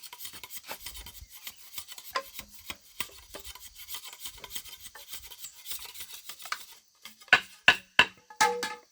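Repeated rasping and scraping, a hand tool or blade working against a hard surface. Near the end come several sharp, louder knocks, one with a short ring.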